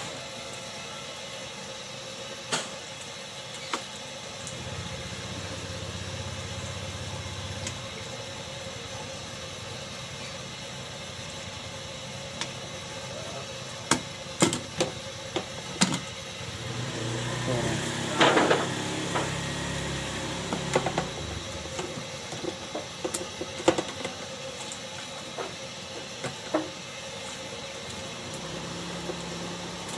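Scattered sharp knocks and clinks over a steady hum, with a low engine-like rumble that comes and goes twice.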